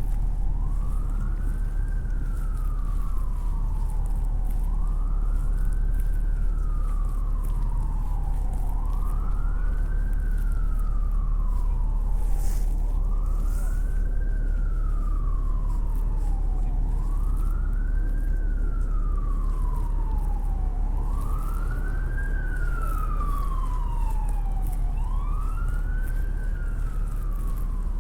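Emergency vehicle siren wailing in a repeating cycle: a quick rise in pitch, then a slower fall, about every four seconds, over a steady low rumble of city traffic.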